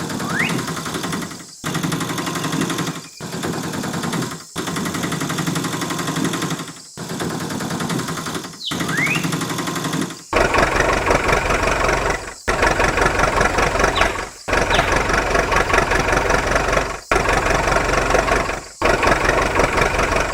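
Small electric hobby motor running with a steady buzzing hum, cut into a string of short takes with brief gaps between them. It runs louder and harsher from about halfway through, and a few short rising whistles sound over it.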